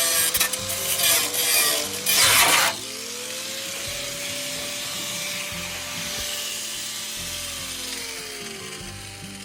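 A power tool cutting with a harsh, rasping noise for about the first two and a half seconds, then running on freely at a steady pitch and winding down near the end.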